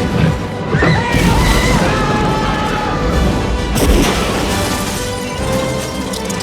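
Movie-trailer sound mix: dramatic music under loud crashes and booms, with sudden heavy hits about a second in and again near four seconds in.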